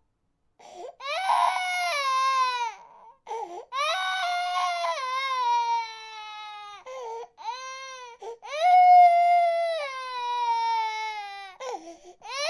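Crying: drawn-out, high-pitched wails that slide down in pitch, repeated in several long phrases with short pauses between them.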